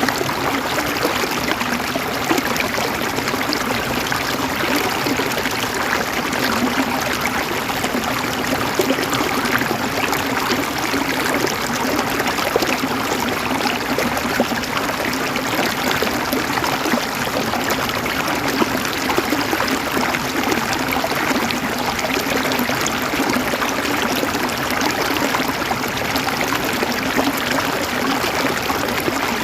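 River water flowing over stones in a steady, babbling stream, with fine trickling and gurgling detail.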